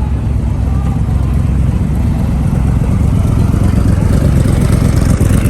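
A car engine running with a deep, loud rumble that grows slightly louder toward the end.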